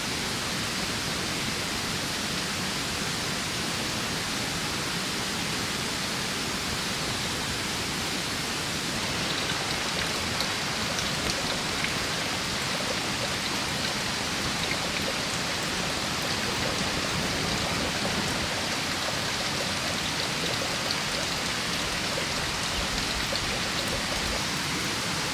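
Heavy rain falling steadily as an even hiss.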